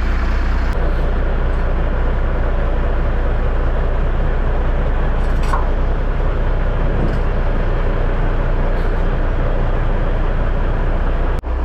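Diesel semi tractor's engine running steadily as the tractor pulls out from under the unhooked trailer.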